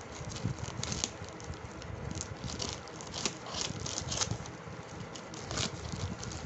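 Courier plastic packaging being handled: irregular rustling with scattered taps and crinkles.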